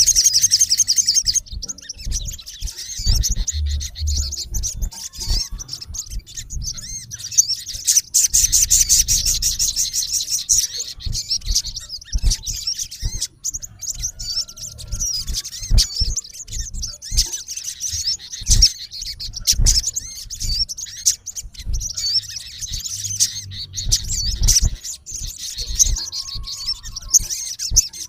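Male olive-backed sunbird calling: fast, high-pitched chattering trills, with dense runs at the start, about eight seconds in and near the end, and scattered single notes in between.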